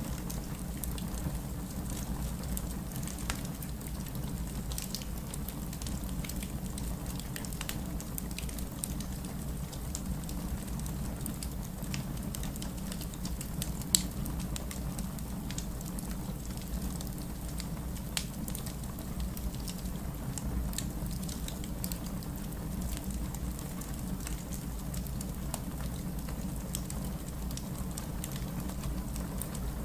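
Wood fire crackling in a fireplace: a steady low rumble of flame with scattered small pops and snaps, and one sharper, louder pop about halfway through.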